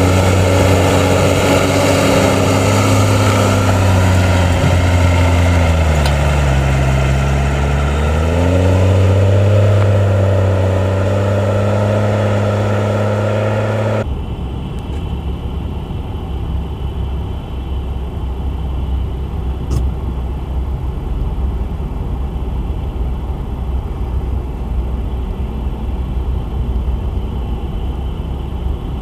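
Engine of heavy snow-clearing machinery running hard. Its pitch sags about six seconds in, as under load, and climbs back a couple of seconds later. About halfway through it cuts abruptly to a lower, rougher engine rumble from another machine.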